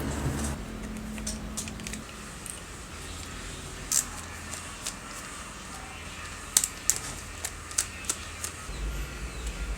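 Scattered sharp clicks and light knocks of small hard parts and tools being handled, over a low steady hum. A few clicks come about four seconds in, and a quicker cluster comes a little later.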